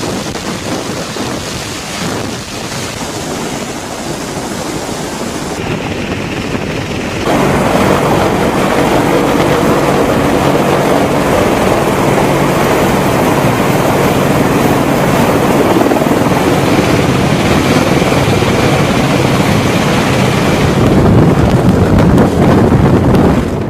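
Wind buffeting the microphone, joined about seven seconds in by a louder, steady engine drone. Both cut off suddenly at the end.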